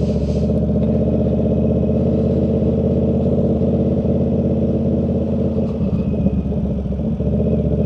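Motorcycle engine running at a steady speed, its pitch holding nearly constant.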